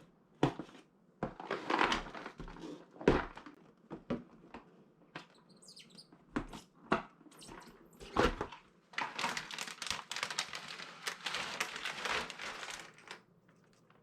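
Cardboard jigsaw puzzle pieces being handled on a table: scattered clicks and taps, with longer stretches of sliding and rustling as pieces are moved about.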